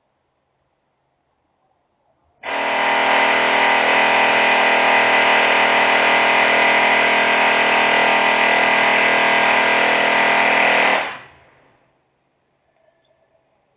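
Loud industrial machinery noise: a steady drone of several held tones that starts suddenly, runs unchanged for about eight seconds, then stops quickly.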